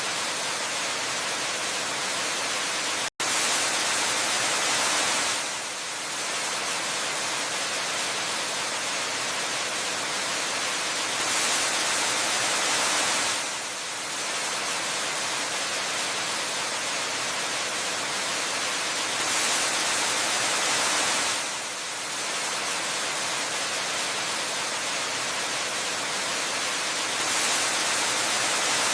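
Waterfall cascading into a pool: a steady, even rush of falling water that swells a little louder about every eight seconds. About three seconds in, the sound cuts out for a split second.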